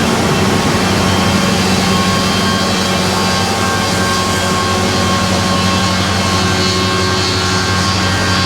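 Combine harvester working close by, its engine and Seed Terminator weed-seed mill running steadily and loud, several steady tones over a rushing noise.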